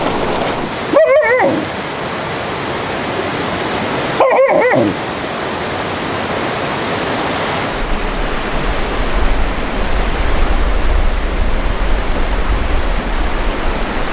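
Rushing stream water, with a dog giving two short wavering whines, about a second in and about four seconds in. A low rumble joins under the water from about eight seconds in.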